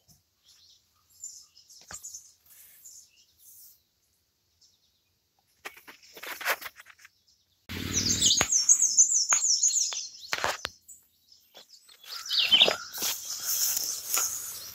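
Songbirds singing: faint high chirps, then a loud, rapid, repeating high song lasting about two and a half seconds, starting about eight seconds in, and another song near the end. A brief low rumble comes in under the start of the louder song.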